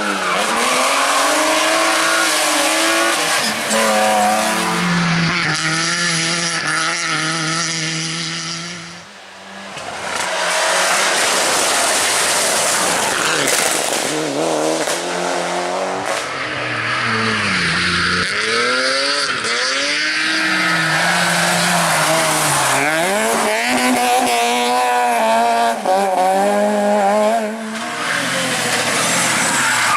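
Rally cars driven flat out on stage, engines revving hard and climbing and dropping through gear changes and lifts, with tyre squeal and skidding noise. Several separate passes are cut together, with a brief lull about nine seconds in.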